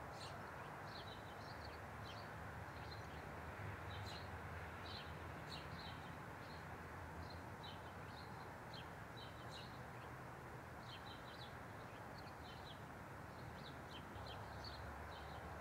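Small birds chirping faintly in short, irregular calls over a steady low background rumble.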